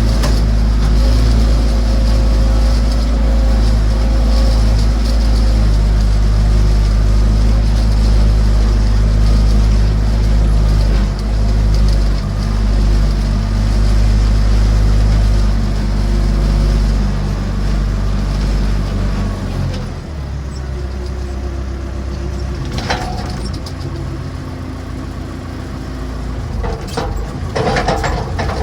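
Massey Ferguson BX 50 backhoe's engine running hard, dropping to a lower, quieter speed about twenty seconds in, with two sharp knocks near the end.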